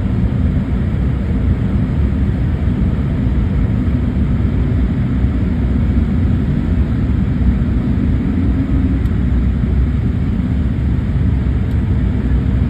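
Steady airliner cabin noise while landing: an even, loud rumble of the jet engines and rushing air, heaviest in the low end.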